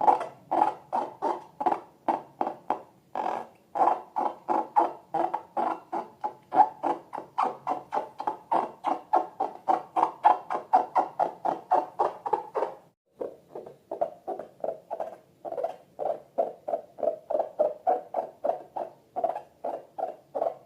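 Slime squeezed and worked by hand: short wet squelches, about three or four a second, pausing briefly past the middle and then going on a little softer.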